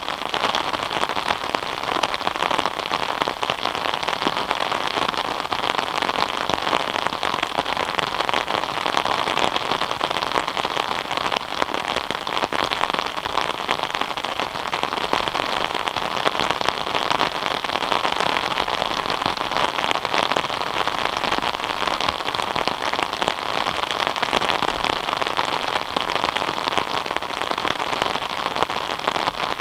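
Steady rain falling, a dense, even patter of many drops on surfaces.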